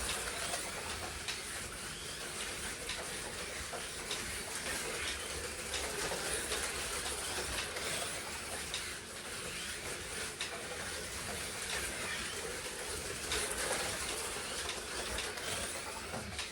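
Slot cars racing on a club track: the steady whine of their small electric motors and the running noise of the cars along the slotted track, with scattered faint clicks.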